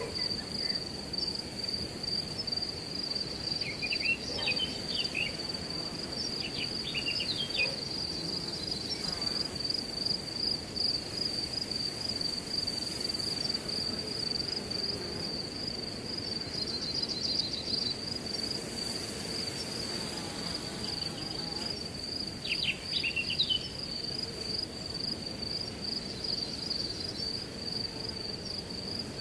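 Crickets trilling without a break at one steady high pitch over a low, even rush of wind through grass. A few short chirps sound over it now and then.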